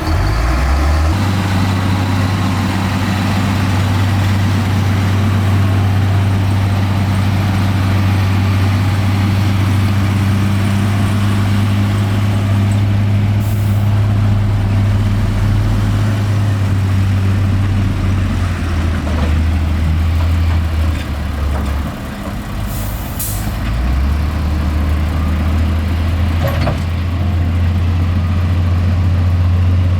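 Heavy diesel engine of earthmoving machinery running steadily and loudly, dipping in pitch and level briefly about two-thirds through. Two short hisses of air are heard, one near the middle and one shortly after the dip.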